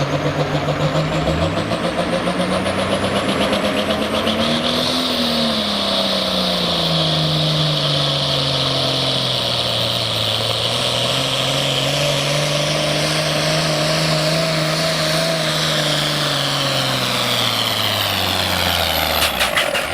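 International Harvester 1466 farm tractor's turbocharged diesel engine under full load during a pull. It revs up over the first few seconds, holds a heavy, slightly wavering pitch with a high whine above it, then winds down just before the end.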